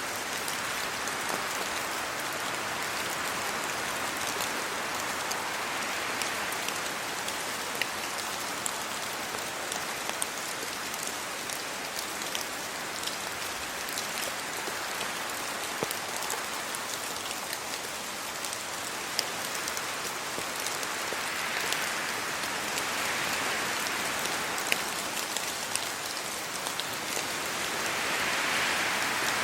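Steady rain falling on trees and a road: an even hiss with many sharp single drop hits all through. The hiss swells twice in the second half, as gusts of wind stir the leaves.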